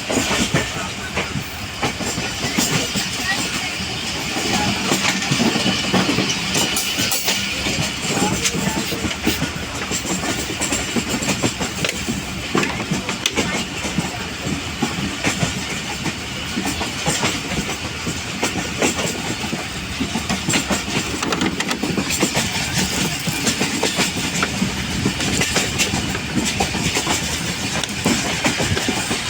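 Passenger train coaches running along the track: a steady rumble with wheels clattering over the rail joints.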